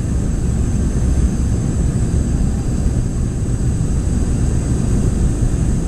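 Boeing 717 cabin noise in flight: a steady, loud low rumble of airflow and the rear-mounted Rolls-Royce BR715 jet engines, with a thin, steady high engine whine over it.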